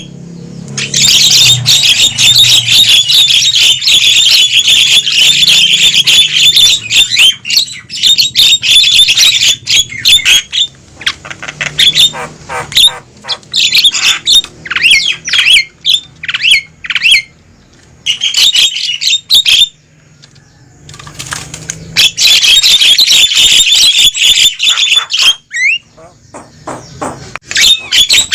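Javan mynas calling noisily: dense, rapid, harsh chattering and squawking calls in long bursts, with a couple of short lulls partway through.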